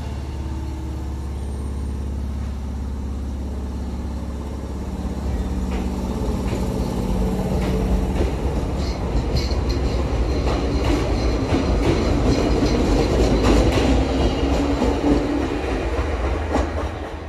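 Electric commuter train pulling out of a station: the motors hum and rise in pitch as it accelerates, then the wheels clack over rail joints as the cars run past, growing louder before dropping away as the last car leaves near the end.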